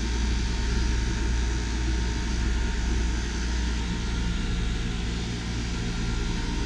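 Auxiliary fans on a radiator in a heat pump's closed water-cooling loop, running with a steady whir over a low hum.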